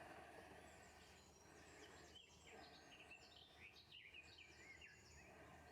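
Faint songbird chirping and warbling: a run of quick high chirps with a few short falling notes, over a quiet outdoor hush.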